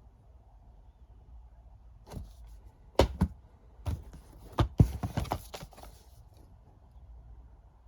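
Plastic Blu-ray and DVD cases being handled and set down: a quick run of sharp clacks and knocks in the middle, the loudest about three and five seconds in.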